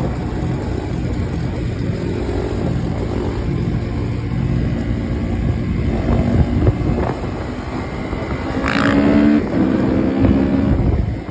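Husqvarna dirt bike engine revving up and down while riding, its pitch rising and falling; the hardest revs come about six and nine seconds in.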